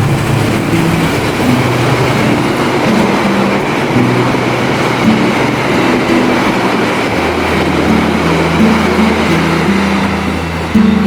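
Diesel train running past at speed: a loud, steady rush of wheel and engine noise.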